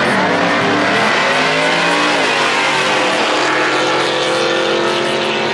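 A car engine accelerating hard at full throttle: its pitch climbs, drops about two seconds in, then holds steady and loud.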